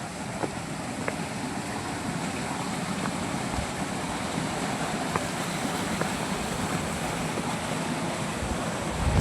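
Steady outdoor rushing noise, with a few faint clicks and a brief low thump near the end.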